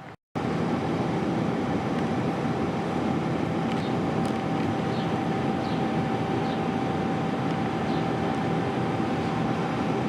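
A heavy engine running steadily at a constant pitch, with a steady whine over a dense rumble. It begins abruptly just after the start.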